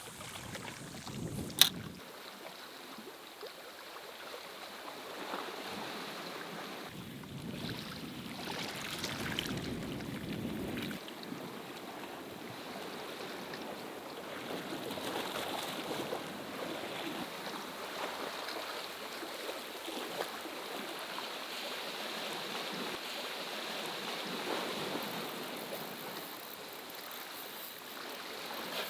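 Steady outdoor wash of moving water with wind noise on the microphone. One sharp click about one and a half seconds in.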